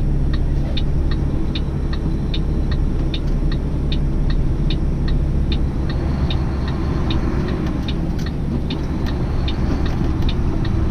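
Truck engine running with a steady low hum inside the cab, under a regular ticking about twice a second.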